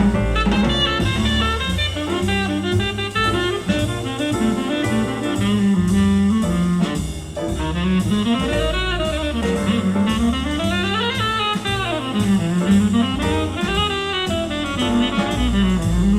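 Jazz with saxophone, bass and drum kit played back through hi-fi loudspeakers in a demo room, the sax line gliding up and down.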